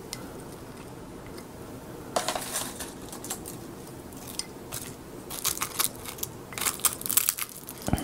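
Crisp sheets of roasted seasoned laver (gim) crackling and crunching in short bursts, as they are wrapped around a fried egg and eaten. The crackling starts about two seconds in and is thickest in the last few seconds.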